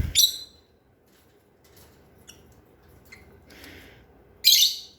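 A lovebird gives one sharp, high-pitched squawk near the end, after a few faint clicks.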